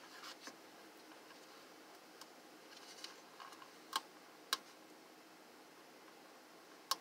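A few sharp clicks and taps from the parts of a space heater being handled during reassembly, the loudest about four seconds in, half a second later and again near the end, over low room noise.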